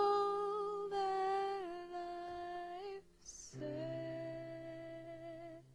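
A woman's voice humming long held notes to close a song, with a breath taken about three seconds in; the last note stops just before the end.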